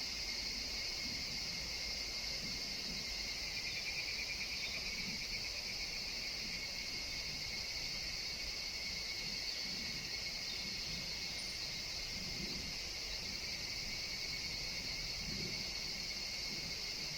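Forest chorus of higurashi evening cicadas, a steady high-pitched shrilling with no break.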